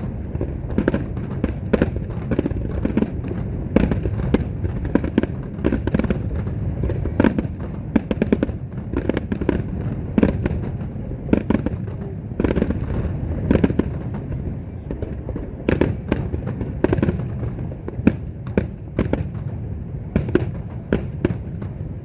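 Aerial fireworks bursting in a dense, unbroken run, several bangs and crackles a second over a constant low rumble.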